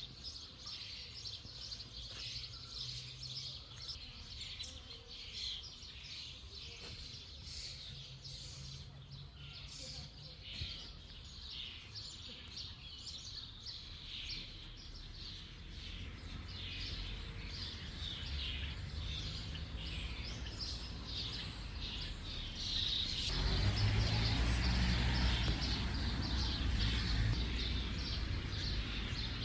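Several birds chirping and singing. About two-thirds of the way through, a louder rushing noise with a low rumble comes in under the birdsong.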